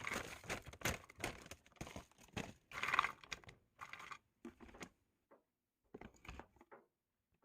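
Rummaging for frozen vegetables: plastic bags crinkling and rustling among a run of light clicks and knocks, thinning out and stopping near the end.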